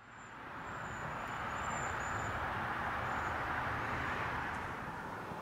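CN freight train running by on the rails: a steady rushing rumble that swells slightly, with a thin high whine that comes and goes in the first two seconds or so.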